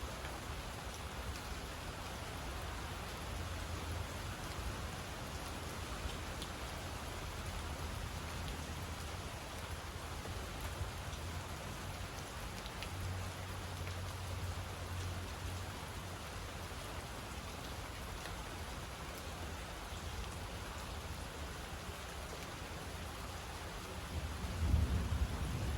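Steady rain falling, with low rolls of thunder. A louder thunder rumble builds near the end.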